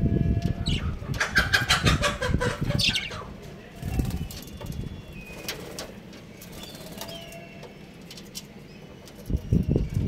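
Birds flapping their wings in a flurry for about the first three seconds, then quieter, with short falling chirps scattered throughout.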